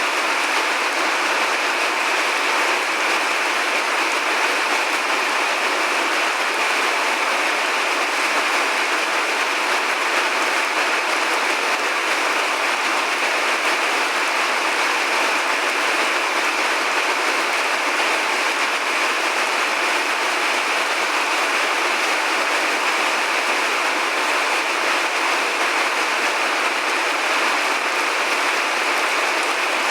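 Steady rain falling: an even, unbroken hiss with no thunder rumbles or other events.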